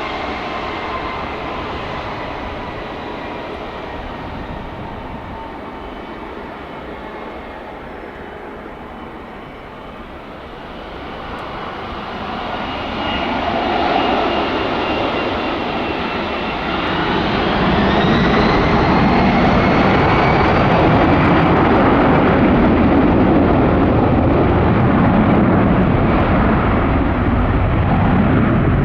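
Boeing 757-300 jet engines going to takeoff power. The whine glides up in pitch about two-thirds of the way in, then a loud, steady jet roar holds through the end.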